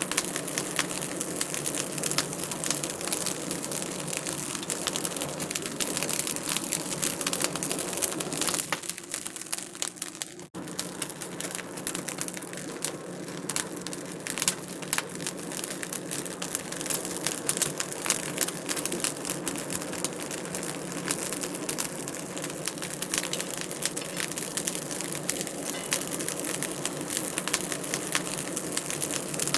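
Wood fire in a fireplace crackling steadily with many small pops and snaps. The crackle dips for a moment about nine seconds in, then comes back.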